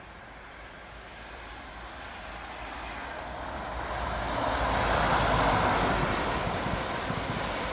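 Aircraft passing overhead: its engine noise swells steadily, peaks about five seconds in, then eases slightly.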